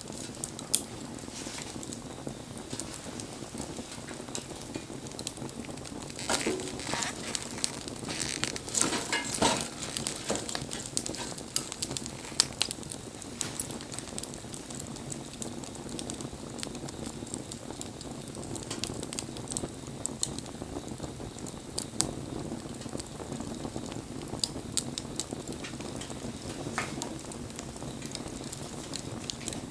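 Wood fire burning: a steady hiss with frequent sharp crackles and pops, which come thickest about a quarter of the way in.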